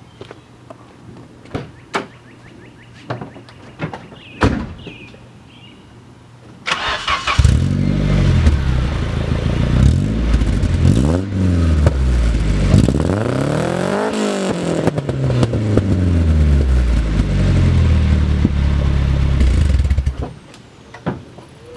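Nissan 240SX's 2.4-litre four-cylinder engine with an aftermarket Magnaflow exhaust, started about seven seconds in after a few quiet knocks and clicks. It is revved up and down about three times, runs on more steadily, then goes quiet about twenty seconds in.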